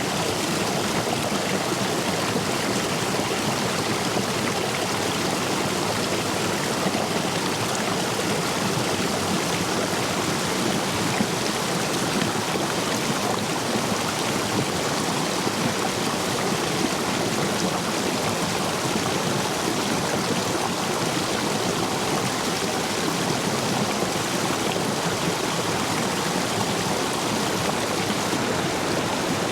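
Stream water rushing steadily over and between stepping stones, a full flow after days of heavy rain.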